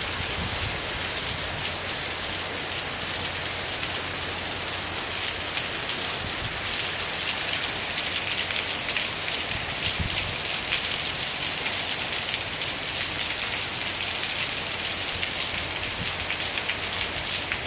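Steady heavy rain from a hurricane's outer bands, driven by gusty wind, with a low wind rumble underneath.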